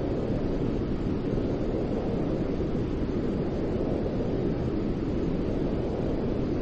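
Steady white noise for soothing a baby to sleep: an even, deep rushing hiss with no changes.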